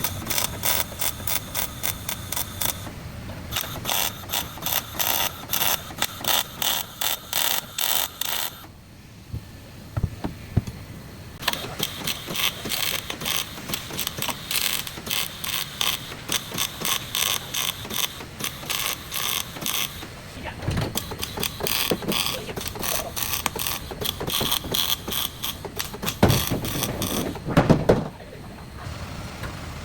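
Metal tool clicking in fast, even runs of about four clicks a second, each run lasting several seconds with short pauses between them, like a ratchet being worked.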